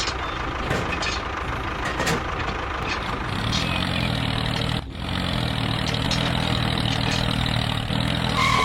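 A motor running steadily, with a few clicks in the first two seconds and a deeper engine-like hum coming in about three seconds in. There is a brief break just under five seconds in.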